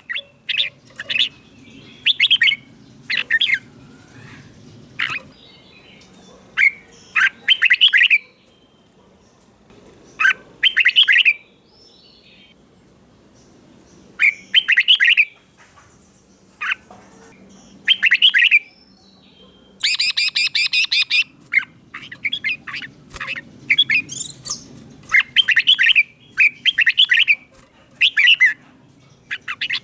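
Red-whiskered bulbul singing: short, bright, warbling phrases repeated with brief pauses between them. A harsher, denser call comes about twenty seconds in.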